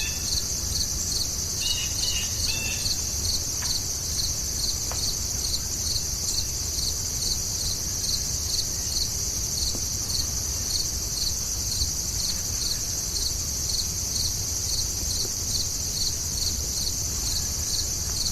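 Insects chirping steadily: a continuous high trill with evenly repeating chirps about twice a second. A few short bird chirps come in during the first few seconds.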